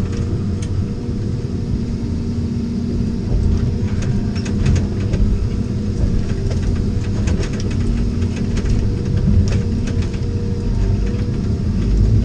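Vehicle engine and tyre rumble, steady, on a muddy, rocky dirt road, with scattered sharp clicks and knocks.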